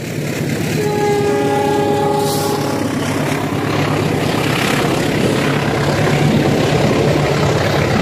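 A diesel locomotive horn sounds for about two seconds, starting about a second in. After it, a steady rumble of a train passing on the adjacent track continues, with a low diesel engine hum.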